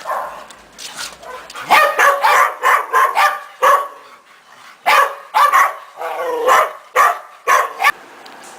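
Dogs barking, a rapid string of loud barks that pauses briefly about halfway through and then starts again.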